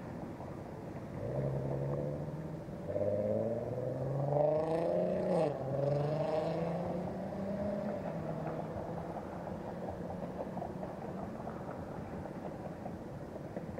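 Vehicle engine accelerating: its pitch climbs, drops sharply about five seconds in as it shifts gear, climbs again, then settles into steady cruising.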